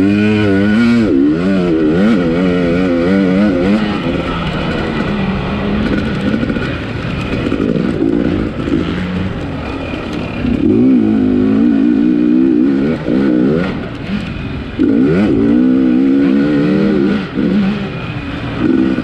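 250-class off-road motorcycle engine revving hard, its pitch climbing and falling again and again with throttle and gear changes, with a couple of short lulls as the throttle closes.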